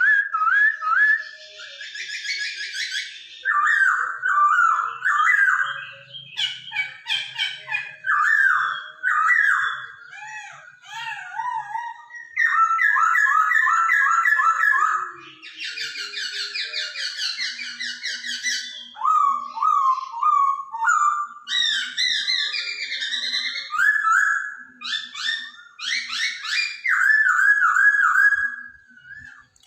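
Chinese hwamei singing a loud, varied song of whistled phrases, each note repeated several times in quick runs, with short pauses between phrases. Two stretches of harsh, buzzy chatter come in, about two seconds in and again around sixteen seconds.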